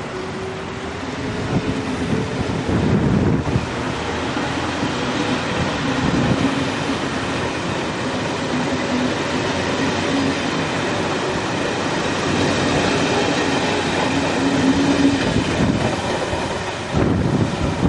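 SJ X2000 high-speed train moving slowly past close by: a steady rush of steel wheels on rail with a low hum under it and a few heavier knocks as bogies go by.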